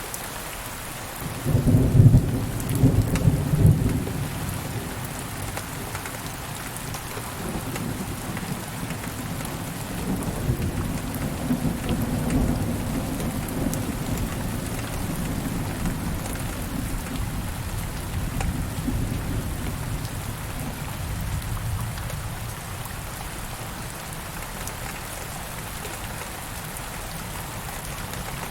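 Steady rain with a thunderclap about a second and a half in, its loudest crashes over the next two seconds, then a long low rumble that swells again and slowly fades out.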